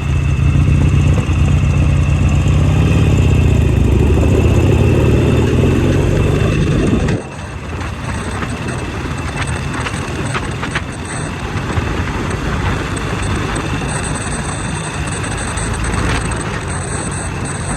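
Motorcycle engine running loudly with a deep, steady note, then dropping suddenly about seven seconds in to a quieter, even running sound.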